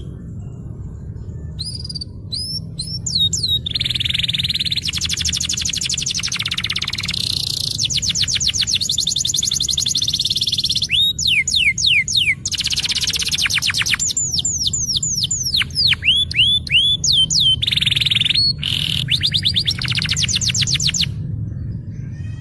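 Domestic canary singing continuously in rapid rolling trills: fast series of down-slurred notes and buzzy rolls, broken by slower single whistled slurs. The song stops about a second before the end.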